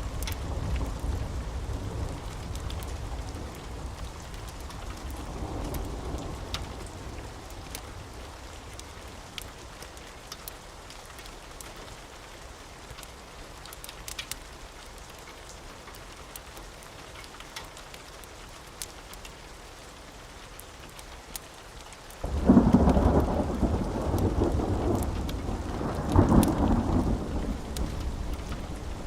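Steady rain with thunder rumbling and dying away over the first several seconds, and scattered sharp ticks. About 22 seconds in, a sudden loud thunderclap breaks and rolls on, with a second loud crack about four seconds later.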